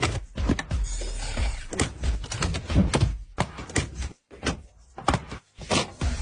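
A run of irregular knocks, thuds and clunks, with a short hiss about a second in.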